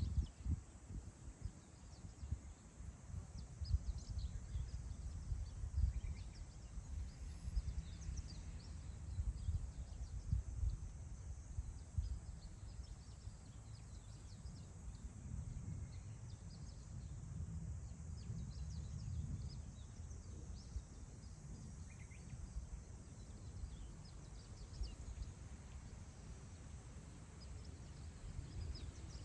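Wind gusting over open grassland and buffeting the microphone in low rumbles, stronger in the first half. Faint, scattered high chirps of small birds sound throughout.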